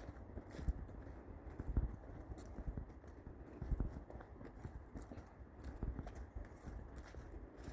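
Footsteps of a brisk walk on a trail: a steady run of soft thumps, about one to two a second.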